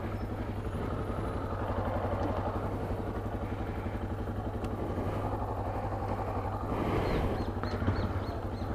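Motorcycle engine running steadily. A few short high chirps come in near the end.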